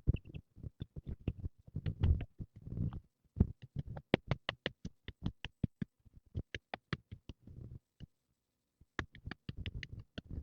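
A rapid run of sharp taps and knocks, several a second, with some duller thuds among them.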